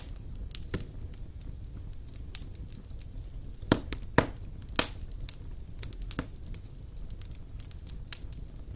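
Wood fire burning in a fireplace: irregular sharp pops and crackles from the logs over a low steady rumble of the flames, with a cluster of louder pops about halfway through.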